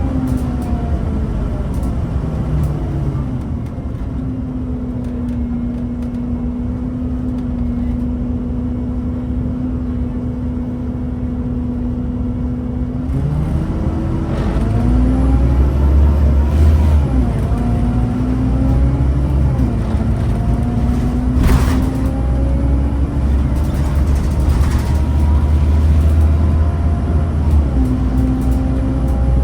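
Scania N230UB Omnicity bus's five-cylinder diesel engine running. The engine note falls and then holds steady for several seconds. It then climbs in pitch and drops back several times as the bus pulls away through its gears, with a louder low rumble and a single sharp knock about two-thirds of the way through.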